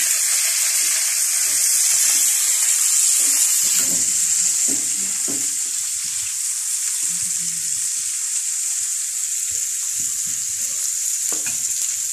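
Bitter gourd and onion slices sizzling in hot ghee and oil in a frying pan, with a spoon stirring and scraping the pan now and then.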